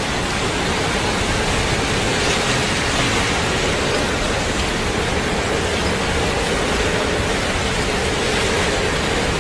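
Steady, unbroken rushing noise of heavy rain and running floodwater.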